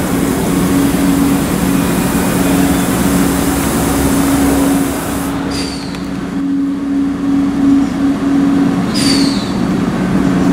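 Stadler GTW diesel multiple unit running slowly into the station with a steady engine hum, with two brief high squeals, about five and a half seconds in and again near nine seconds.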